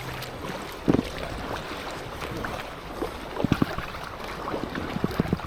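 Kayak paddle strokes splashing and knocking in moving river water around an inflatable kayak, with a steady rush of water, and sharper splashes about a second in and again in the second half.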